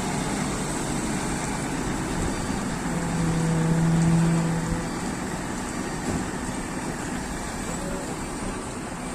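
Engine running steadily on a construction site, its noise swelling with a low steady hum for a couple of seconds about three seconds in.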